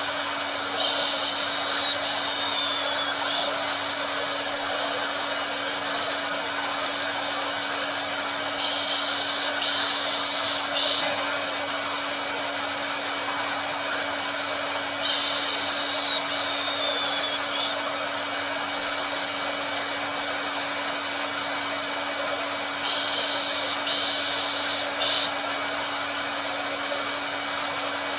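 Hair dryer blowing steadily: an even rushing hiss over a constant hum. A brighter, sharper hiss surges for a couple of seconds about every seven seconds, four times.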